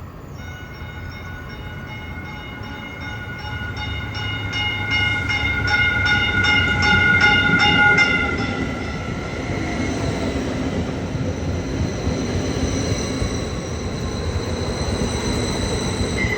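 Caltrain electric commuter train pulling into the platform. A steady high-pitched whine is joined by rapid clicking of the wheels, about two or three a second, growing loudest about eight seconds in. The train then runs on more quietly with a shifting whine as it slows.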